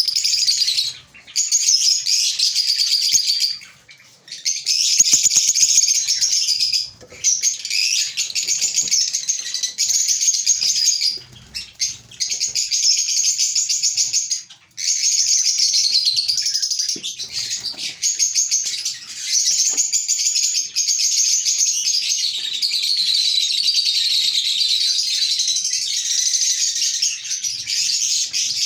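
Lovebirds chattering: a dense, high-pitched stream of rapid chirps and twitters, broken by a few brief pauses.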